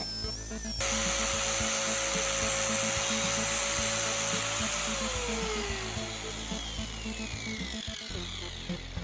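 An electric power tool cuts in abruptly about a second in, with a steady whine over a broad hiss. About four and a half seconds in it winds down, its whine falling in pitch as it fades.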